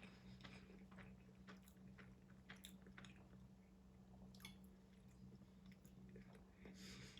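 Faint chewing close to the mouth: scattered soft, wet mouth clicks of food being chewed, over a steady low hum.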